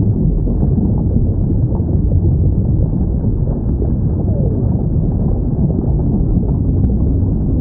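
Steady low underwater rumble with a faint whale call sliding down in pitch about halfway through.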